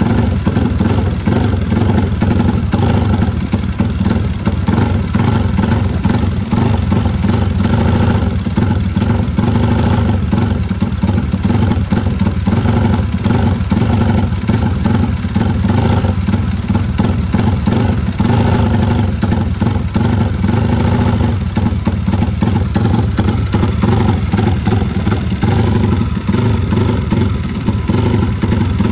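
Race-built Yamaha Vixion motorcycle's single-cylinder four-stroke engine running steadily and loudly.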